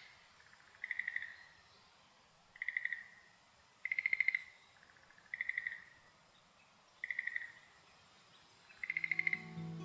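A frog calling: six short rattling croaks, each a quick run of clicks, spaced one to two seconds apart over a faint hiss. Background music fades in near the end.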